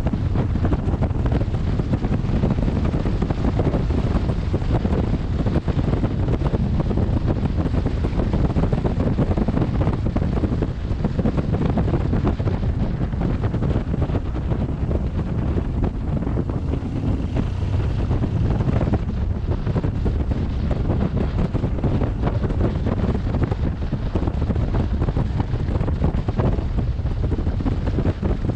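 Wind buffeting a helmet-mounted camera microphone on a moving motorcycle: a steady, rumbling rush of wind noise, heaviest in the low end.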